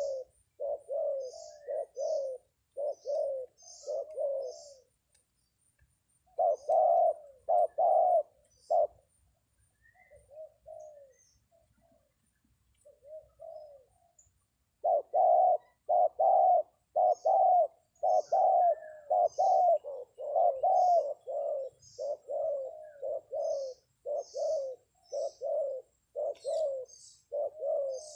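Spotted dove (terkukur) cooing over and over in quick, rolling notes, the lure call used to bring wild doves down to a trap. The calling thins out about a third of the way in, then picks up again almost without a break. Faint, short, high chirps sound above it.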